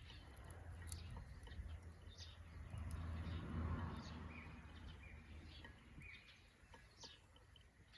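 Small birds chirping here and there, over a low rumble that swells and fades about three to four seconds in.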